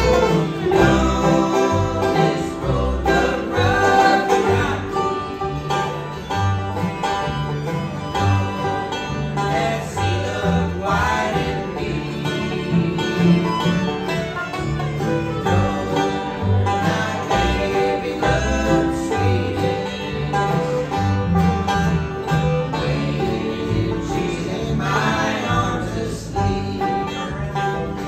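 Acoustic bluegrass band playing an instrumental passage, with a banjo and guitar prominent and a bass line changing about every half second.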